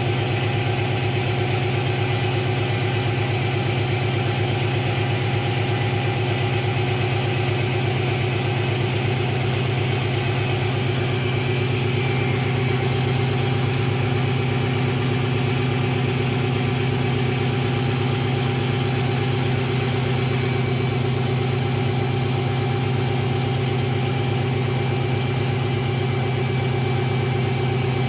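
Subaru engine idling steadily at an even speed.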